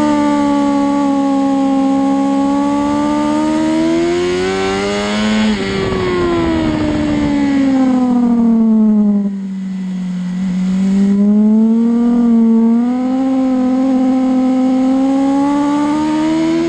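Onboard sound of a racing motorcycle engine at speed: the engine note climbs under acceleration for about five seconds, falls steadily for several seconds as the bike slows for a corner, then climbs again as it drives out.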